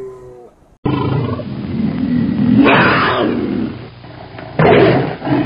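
A large wild animal roaring twice: a long roar that builds to its loudest about three seconds in, then a shorter roar near the end.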